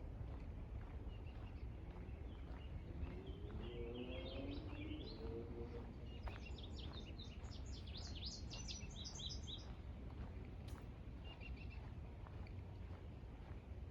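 Songbirds singing over steady low background noise: a short warbled phrase, then a rapid trill of repeated high notes about six seconds in.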